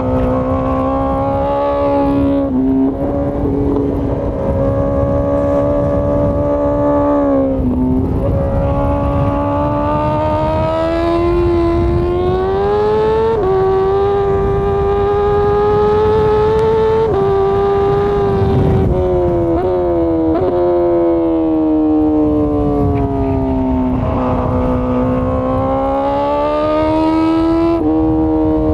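2020 Honda CBR1000RR-R Fireblade's inline-four engine running at high revs under way, its pitch climbing and falling with throttle, with several quick breaks in the note at gear changes.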